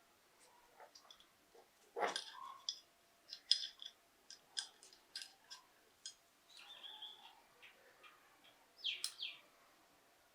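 A series of light, sharp clicks and short metallic squeaks from small metal pistol parts being handled and fitted together, irregular, with a louder cluster of clicks about two seconds in and again near the end.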